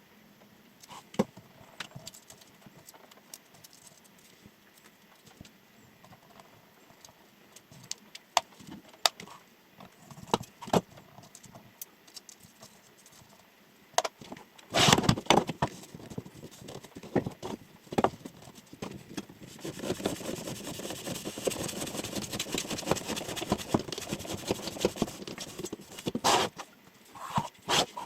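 Damascus chef knife cutting tests: scattered taps and clicks, a loud crunchy cut about fifteen seconds in, then several seconds of rapid continuous cutting strokes.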